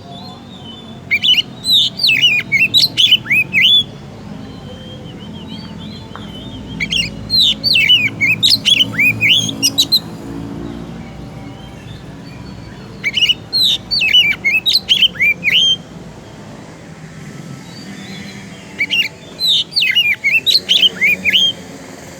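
Oriental magpie-robin (kacer) singing in full voice: four bouts of rapid, sweeping whistled notes, each about three seconds long, with pauses of about three seconds between them.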